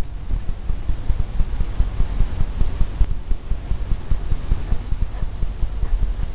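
Rapid, irregular low thumping and rubbing: a painting tool working against a stretched canvas, the knocks carried through the canvas to the microphone.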